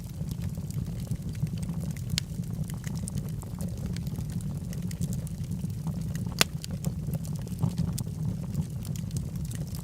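Log fire burning in a fireplace: a steady low rush of flames with frequent small crackles and pops of burning wood, one sharper pop about six and a half seconds in.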